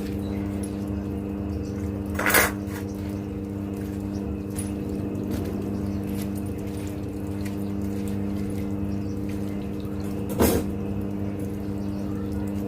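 Steady electrical or motor hum, with two short, sharp noises about two seconds in and again near the end.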